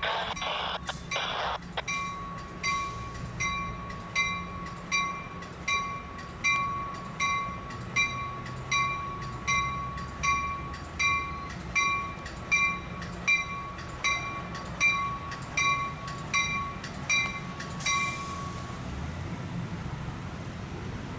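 Passenger train wheels clattering over rail joints, then a railway warning bell ringing steadily, about one and a half strokes a second, for some sixteen seconds before it stops, over a low train rumble.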